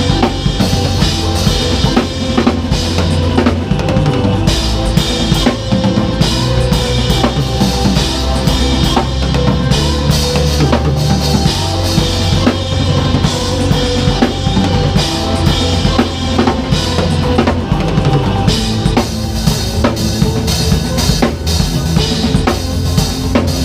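Acoustic drum kit played over a backing track: dense kick, snare and rimshot hits and cymbals, with a sustained bass line and held pitched parts underneath.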